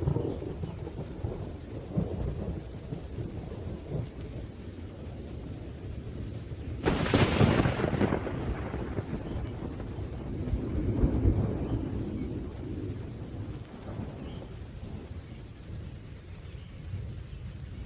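Thunderstorm: steady rain under low rolling thunder, with a loud thunderclap about seven seconds in that rumbles away over several seconds, then a softer roll of thunder a few seconds later.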